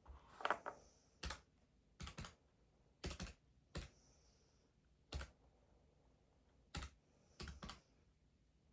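Keys tapped in short, uneven runs: about eight brief bursts of one to a few clicks, with pauses of up to a second and a half between them, faint overall.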